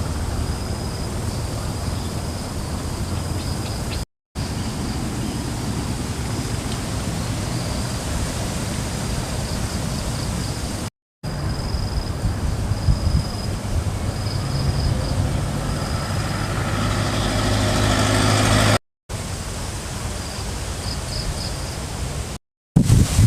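Wind rushing over the microphone in a string of short clips joined by brief cuts to silence, with a faint high tone coming and going. From about 14 s a vehicle engine grows steadily louder as it approaches, until the clip cuts off.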